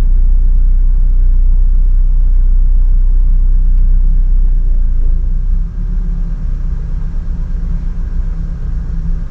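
Loud, low rumble with a steady hum in it, level for about five seconds, then slightly softer and uneven.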